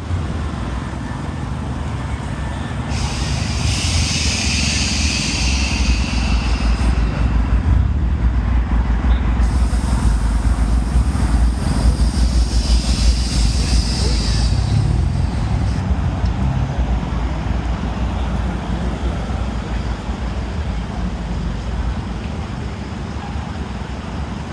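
Air suspension on customised Toyota Alphard and Vellfire minivans letting out air in two long hisses, the first about three seconds in and the second about twelve seconds in, each lasting a few seconds. The minivans' engines keep up a steady low rumble underneath.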